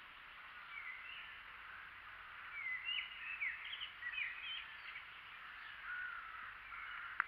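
Birds in the surrounding trees chirping and calling, many short notes that slide up and down, busiest in the middle, over a steady hiss. One sharp click near the end.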